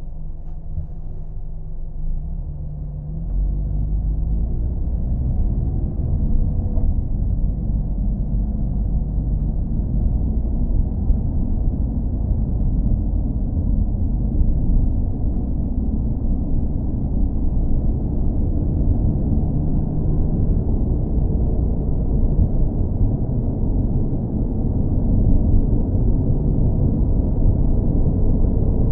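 Car engine running with a steady low rumble, stepping up a little louder about three seconds in.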